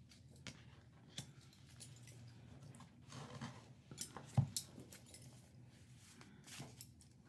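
Tarot and Lenormand cards being handled on a table: faint scattered rustles and light taps as cards are drawn and laid out, with one sharper tap about four and a half seconds in.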